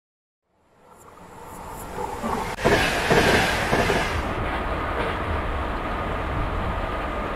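ICE high-speed train running towards the listener at speed. Its rush fades up out of silence and is loudest with a hiss about three seconds in, with one sharp click just before. It then settles into a steady rumbling running noise.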